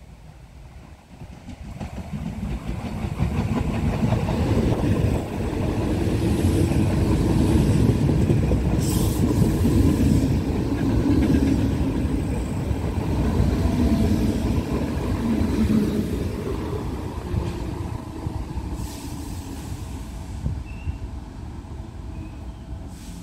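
DART electric commuter train passing close alongside the platform. The rumble of its wheels on the rails builds over the first few seconds, holds loud with a brief high click or two, and fades away in the second half.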